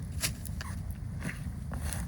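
Steady low wind rumble with a handful of short, sharp crackles or clicks scattered through it.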